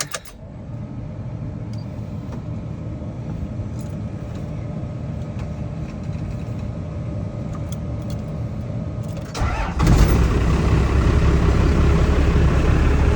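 Cummins 5.9-litre turbo diesel inline-six running steadily at idle. About nine and a half seconds in it suddenly becomes much louder and fuller.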